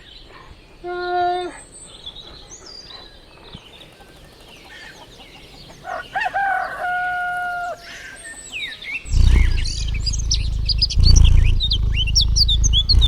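Farmyard fowl calling: a short call about a second in, then a rooster crowing once about six seconds in, rising, holding and dropping off. From about nine seconds there are many quick high bird chirps over a loud low rumble.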